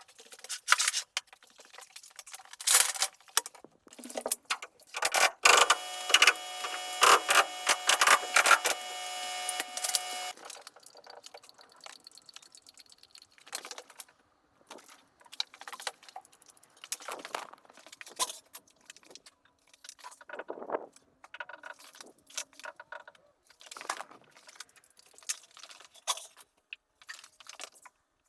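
Carpentry work: scattered knocks and clicks from hand work on wood, with a power tool running for about five seconds a few seconds in.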